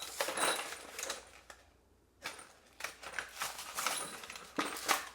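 A toilet repair kit being opened and handled: plastic packaging rustling and small parts clicking, in irregular bursts with a brief pause about two seconds in.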